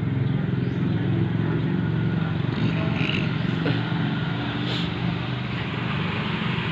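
A motor engine running steadily with an even low hum, over a background hiss.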